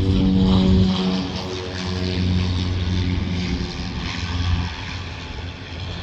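Propeller drone of a military turboprop transport plane, a steady low hum that fades over a few seconds as the plane comes in to land.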